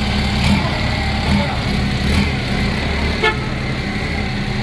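Diesel engine of a Nippon Sharyo DH408-95M pile driver rig idling steadily, with one brief high chirp about three seconds in.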